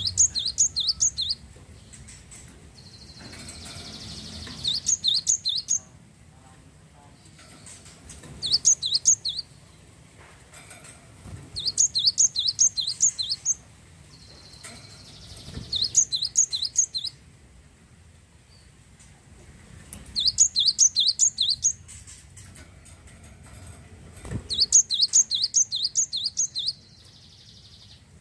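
Cinereous tit (glatik wingko) singing in repeated phrases, each a quick run of high, sharp notes lasting about a second and a half, coming roughly every four seconds.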